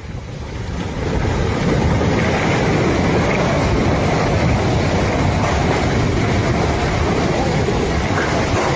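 Loud continuous rumbling roar that builds over the first second and then holds steady.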